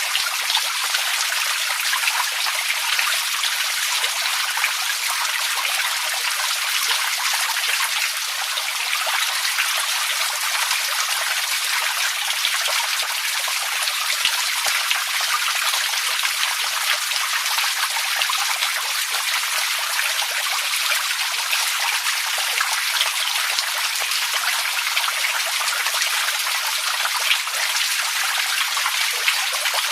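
Running water trickling and splashing steadily, a continuous fine patter with no pauses or changes.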